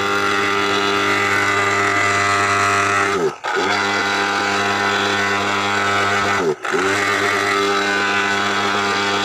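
Handmade electric blower motor running steadily, blowing dust out of a voltage stabilizer. Twice, about three and six seconds in, it briefly slows down and speeds back up.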